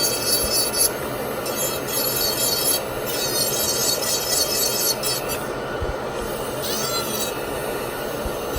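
Dental lab micromotor handpiece grinding a PMMA acrylic temporary restoration with a bur: a high whine that starts and stops several times and slides in pitch as the bur loads, over a steady rasping grind.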